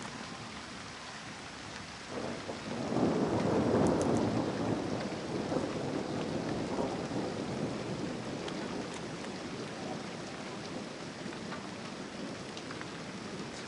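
Steady rain falling, with a rolling rumble of thunder that swells about two seconds in, peaks a second or two later and dies away slowly over several seconds.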